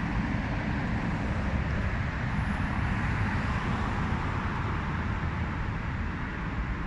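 Steady rumbling background noise with no distinct events, heaviest in the low end.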